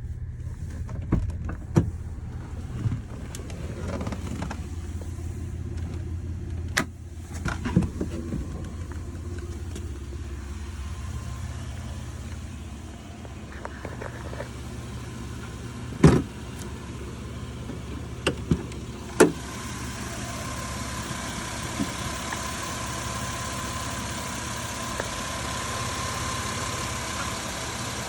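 Chevrolet Venture's 3.4-litre V6 (GM 3400) running with a low, steady hum, broken by scattered clicks and thumps, the loudest about halfway through. In the last third a steady whine and hiss rise over the engine sound.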